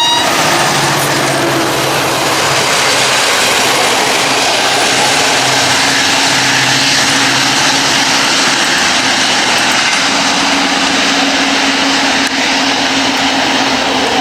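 Diesel-hauled passenger train passing close: loud steady rush of wheels on rails with a low engine hum underneath.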